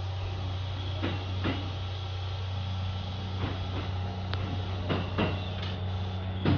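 Electric train heard from inside the cab as it pulls out of a station: a low steady hum with pairs of sharp clicks every second or two as the wheels pass over rail joints and points.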